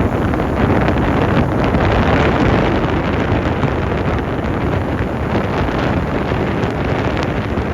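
Strong wind from an approaching typhoon blowing across the microphone: a loud, steady rumble of wind noise.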